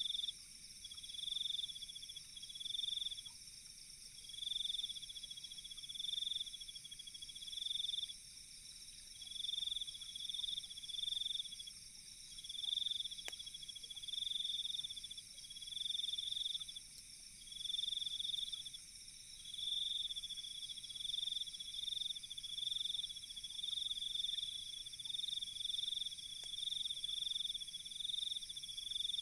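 A night chorus of crickets: high trills in repeated bursts about a second long, over a steady high insect drone. There is one sharp click about halfway through.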